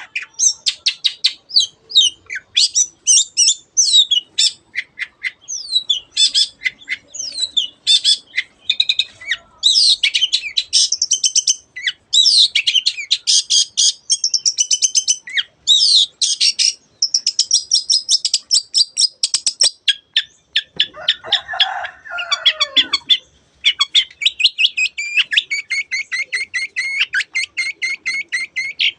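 Long-tailed shrike (cendet) in full song: a fast, varied chatter of rapid trills and sharp, scratchy notes, almost without pause, with a lower, harsher phrase about three-quarters of the way through.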